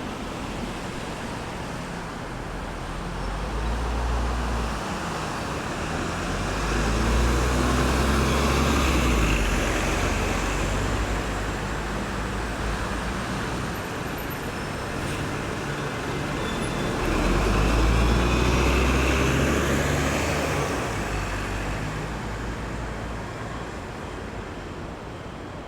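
Road traffic at a roundabout: a continuous wash of tyre and engine noise, swelling as vehicles pass, with two louder passes of deep-running engines, about a third of the way in and again about two thirds through.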